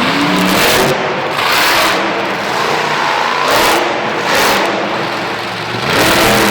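Monster truck's supercharged V8 engine revving hard, loud, surging up and down about four times.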